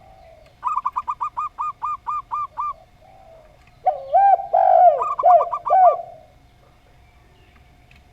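Doves cooing. A zebra dove gives a quick run of about ten short, clipped coos. About four seconds in, a deeper spotted dove coo overlaps a few more of the zebra dove's notes, with lower notes that bend downward.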